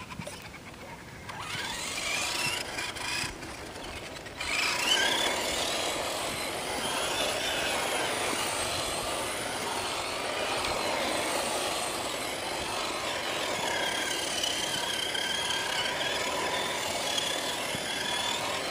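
ECX Torment 2WD radio-controlled short-course truck being driven: its electric motor and gears whine, the pitch rising and falling with the throttle. The whine is faint at first and louder from about four and a half seconds in.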